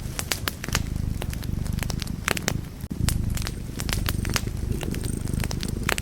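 Wood fire in a fireplace crackling, with frequent irregular sharp pops and snaps over a steady low rumble of the burning fire. The sound drops out for a moment just before three seconds in.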